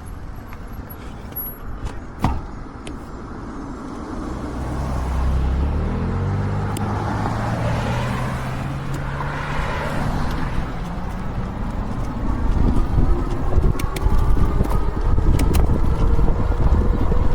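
A car passes close by, its engine and tyre noise swelling to a peak about halfway through. Then wind on the microphone builds, and a faint rising whine comes in as the e-bike speeds up.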